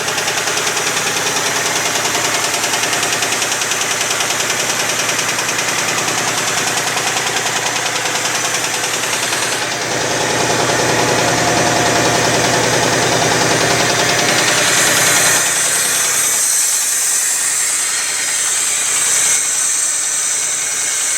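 1989 Ford F-250's 5.8-litre Windsor V8 idling roughly with a pulsing beat through a very noisy exhaust, said to be firing on only four cylinders. It gets a little louder about ten seconds in, and a steady high hiss comes through near the end.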